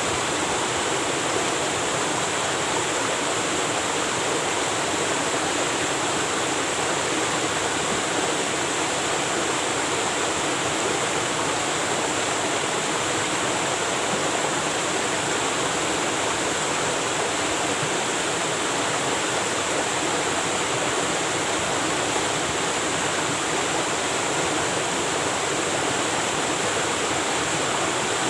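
Waterfall: water falling and splashing steadily, an even rushing noise that does not change.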